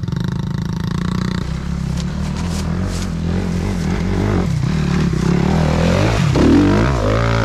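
Small four-stroke off-road engine running under throttle as a child rides it up a rough track, its pitch rising and falling, with sharper revving about six to seven seconds in.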